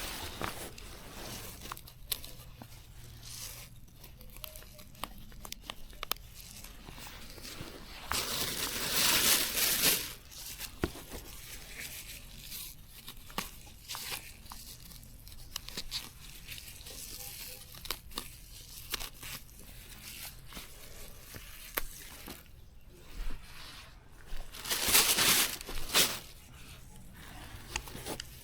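Plants being torn and pulled up by hand, with crackling and rustling of stems and leaves. Two longer, louder ripping sounds come about a third of the way in and near the end.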